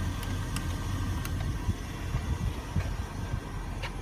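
Steady low vehicle rumble, with a few faint ticks.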